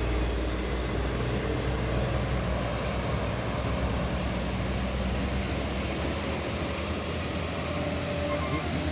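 Heavy diesel truck engine running under load, a steady low drone with a haze of mechanical and road noise, as the truck strains up a muddy slope. The deepest rumble thins out about halfway through.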